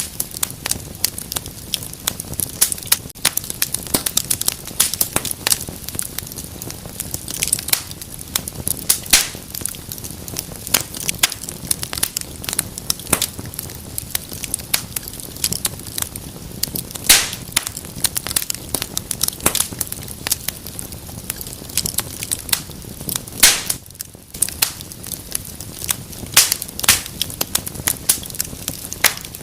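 Wood fire burning in a fireplace, crackling and popping steadily with many sharp snaps, over a low even hiss of flames.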